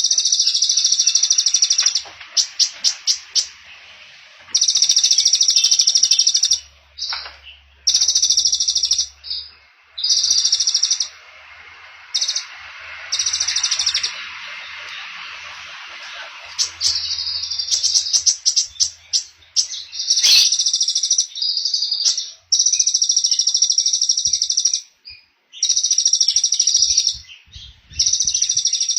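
A small songbird singing rapid, buzzy high-pitched trills in repeated bursts of one to two seconds, with quick ticking notes between the bursts. This is a song 'fill' of the kind played as master recordings for training caged songbirds.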